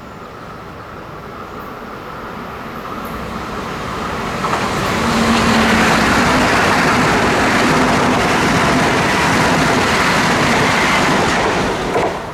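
A train approaching and passing close at speed. The rushing, rumbling noise builds for the first few seconds, stays steady and loud through most of the pass, then cuts off abruptly near the end.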